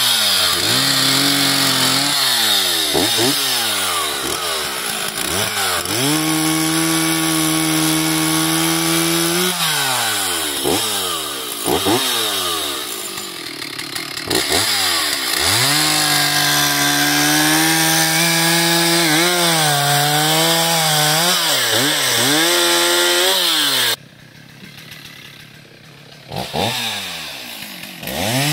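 Chainsaw cutting wood: the engine holds a steady pitch through the cuts, and its pitch falls and climbs again between them. Near the end the saw drops to a much quieter level for about two seconds, then revs up again.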